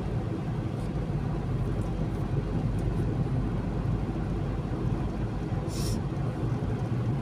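Steady road and engine rumble of a moving car heard from inside the cabin, with a brief hiss about six seconds in.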